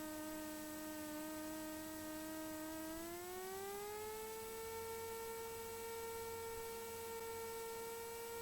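Cessna 172's engine and propeller heard faintly as a steady hum through the cockpit audio feed on final approach. Its pitch rises smoothly about three seconds in as power is added, then holds steady.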